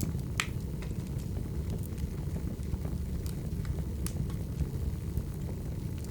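Wood fire burning: a steady low rumble of the flames with scattered sharp crackles and pops of the firewood, the loudest pop about half a second in.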